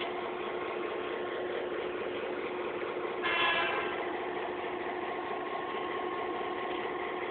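Locomotive engine running steadily, with a short horn toot a little past three seconds in.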